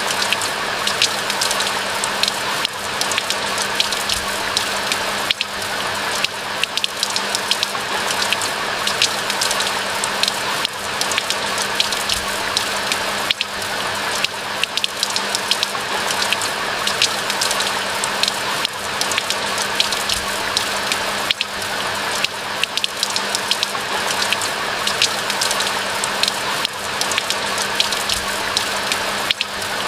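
Steady rain, a dense even hiss dotted with many sharp, distinct drop ticks, with a faint steady low hum underneath.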